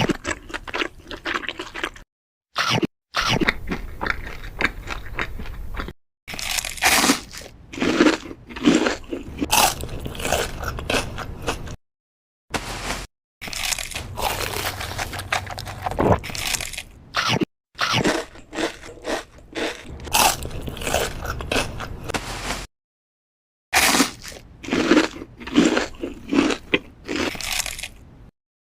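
Mukbang eating sounds: close, loud crunching and chewing of crisp food, bite after bite, broken several times by abrupt cuts to silence where one clip is spliced to the next.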